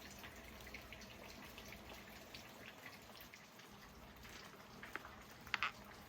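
Rain dripping: faint, irregular drops, with two louder drops about five seconds in.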